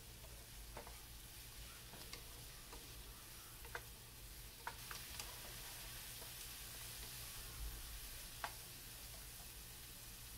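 Chopped onion and snake gourd frying in oil in a pan, a faint steady sizzle that grows a little about halfway through, with a wooden spatula stirring and a few short clicks as it knocks against the pan.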